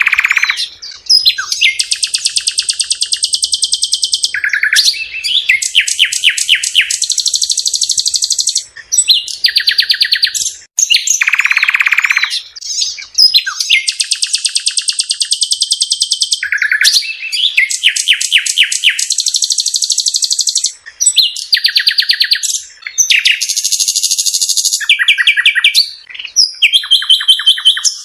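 A songbird singing loudly and almost without pause, in long phrases of rapid trills and repeated notes.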